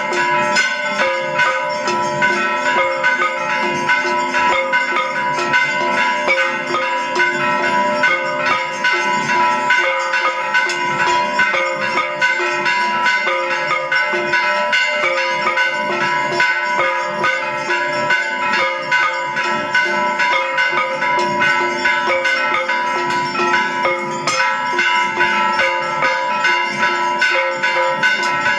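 Temple bells ringing continuously, many bells sounding over one another in a dense, unbroken clangour.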